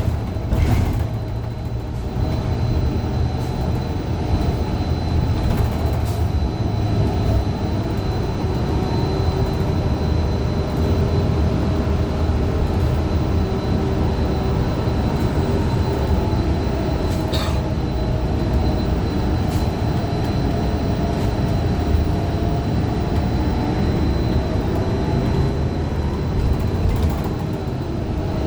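Inside a 2015 Gillig Low Floor CNG transit bus under way: the Cummins Westport ISL G engine and Allison B400R transmission run with heavy low road rumble, a whine that slowly rises and falls in pitch, and a steady thin high tone, with an occasional rattle or knock. The uploader describes the transmission as messed up.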